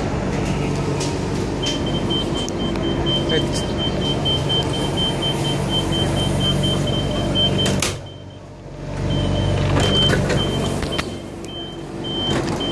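A MetroValencia train's electric hum, steady and low, with a thin high warning tone sounding steadily from about two seconds in. Everything drops out briefly about eight seconds in, then the hum and tone return.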